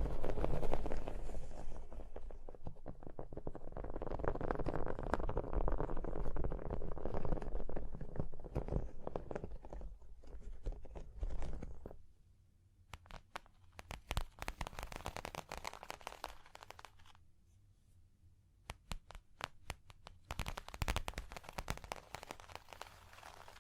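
Close-miked ASMR tapping and scratching on objects: dense scratching and rustling for about the first half, then sparse, sharp taps and clicks with short quiet gaps between them.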